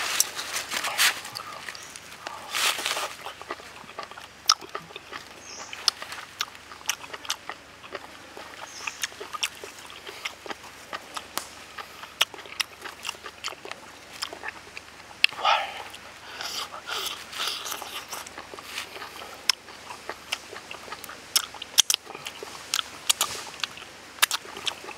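Close-miked eating of grilled octopus: chewing with many short wet mouth clicks and smacks throughout, and a couple of longer breathy slurping sounds.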